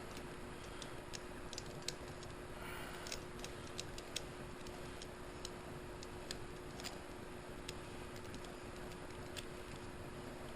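Faint, irregular light clicks and taps of hand tools and metal engine parts being handled, over a steady faint hum and background hiss.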